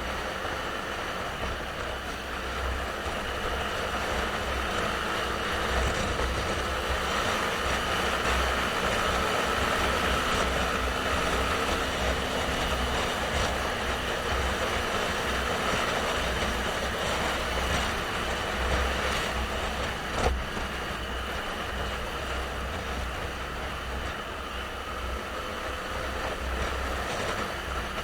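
Motorcycle running on the road, a steady engine note under wind and road noise with low buffeting rumble. One sharp click about twenty seconds in.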